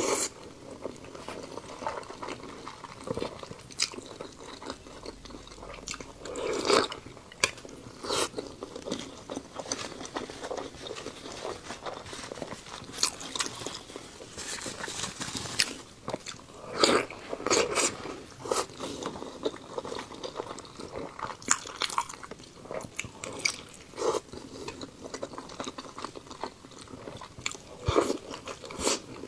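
Close-miked eating: a person chewing and biting food, with irregular crisp crunches and wet mouth clicks and smacks.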